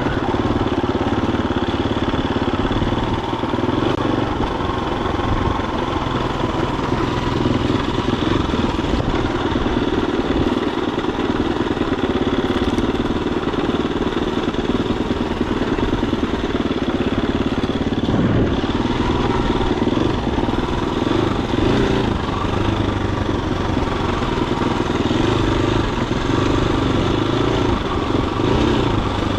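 Husqvarna FE250's single-cylinder four-stroke engine running steadily while the dirt bike is ridden, with only small changes in throttle.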